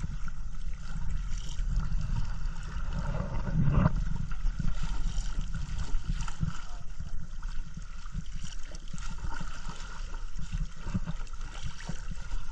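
Sea water splashing and gurgling around a kayak as it is paddled, over a low rumble throughout, with a louder low thump about four seconds in.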